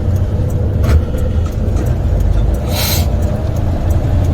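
Semi truck's diesel engine running low and steady, heard from inside the cab, with a single click about a second in and a short hiss about three seconds in.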